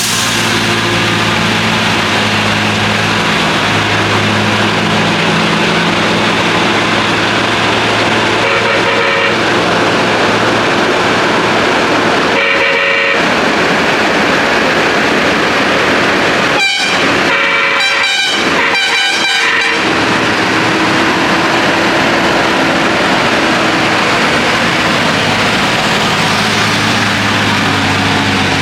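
Heavy lorry engine labouring steadily in first gear, with a horn sounded over it: a short blast about eight seconds in, a longer one around twelve seconds, then a quick series of toots a few seconds later.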